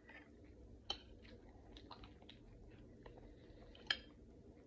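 Close-up chewing of food, with soft wet mouth clicks and two sharper clicks, one about a second in and one near the end.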